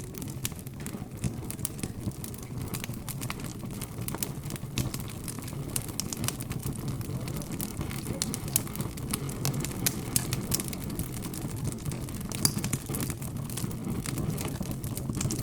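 Wood fire crackling, with many small irregular pops and snaps, over a low steady hum of background chatter.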